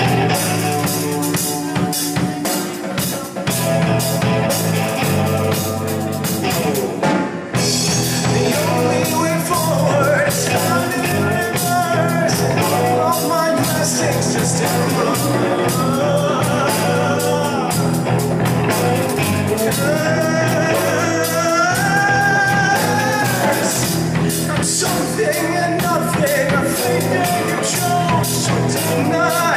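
A rock band playing: drum kit, electric guitar and bass, joined by a singing voice from about eight seconds in.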